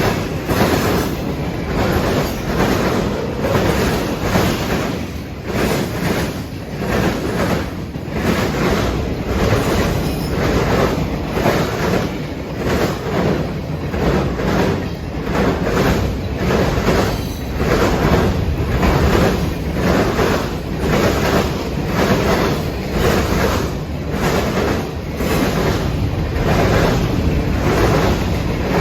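Freight train cars rolling past at close range: steady loud rumble and rattle of wheels on rail, with a repeating clack roughly once a second as wheel sets cross the rail joints.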